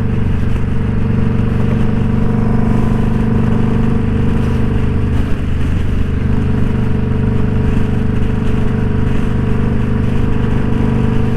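Indian Scout Bobber's V-twin engine running steadily at cruising speed, mixed with steady wind and road noise.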